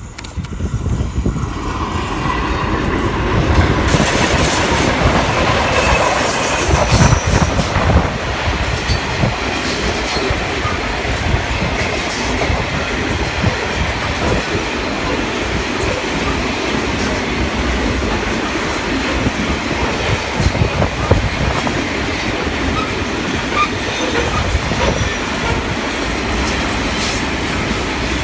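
Freight train, a grain train, rolling past close by. The sound builds and is loudest in the first several seconds, then settles into a steady rumble of wagons with wheels clicking over the rail joints.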